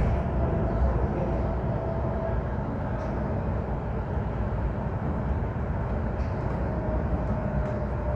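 VTA light rail train running between stations, a steady rumble of wheels and running gear heard from inside the car, with a faint steady whine.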